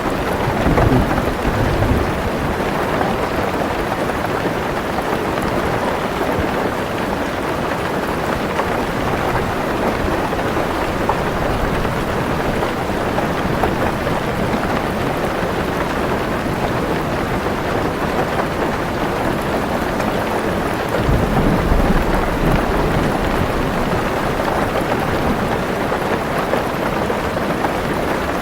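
Heavy rain falling steadily on a car roof, heard from inside the car, with low rolls of thunder twice: about a second in and again about three quarters of the way through.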